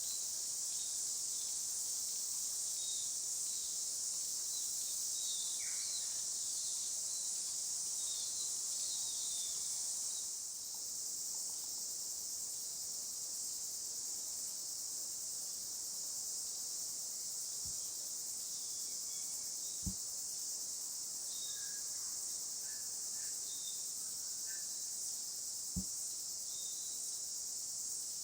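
Steady high-pitched insect chorus, with faint scattered bird chirps and two short clicks in the second half.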